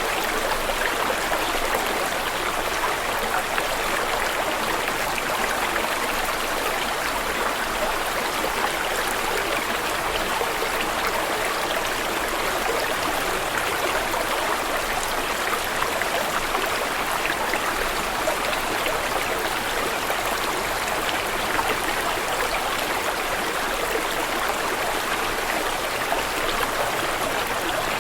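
Steady flowing water of a stream, rushing evenly without a break.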